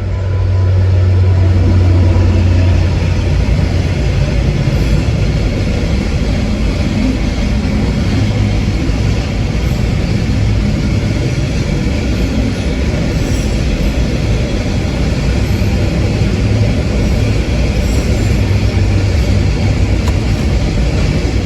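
Train running along the track: a loud, steady low running noise with a deep hum.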